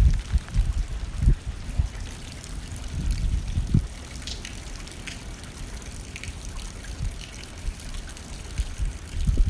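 Rain hitting a window pane as a steady hiss with scattered sharper drop ticks, under gusts of wind that rumble low in the first seconds, again around the middle and near the end.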